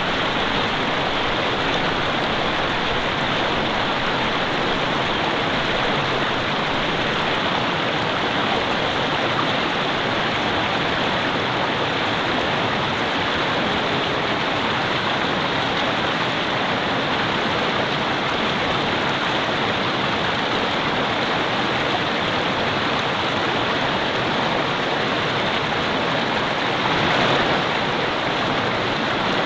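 Mountain river flowing steadily over rocks, an even rushing of water, briefly a little louder near the end.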